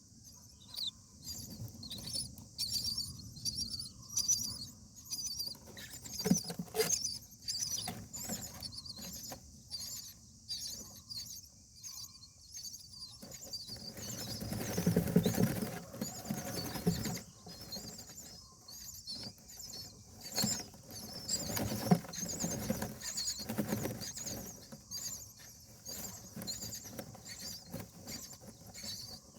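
Indian myna nestlings cheeping in the nest, a rapid string of short, high, squeaky calls. Bouts of rustling and scuffling in the nest come in about halfway through and again a few seconds later.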